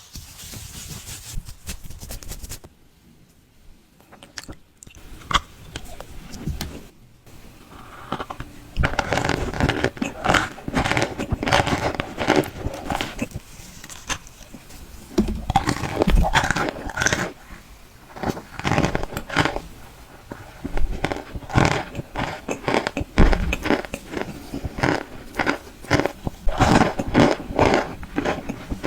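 Close-up biting and chewing of dry cornstarch chunks: squeaky, crackling crunches that start sparse and quiet, then come thick and loud from about a third of the way through.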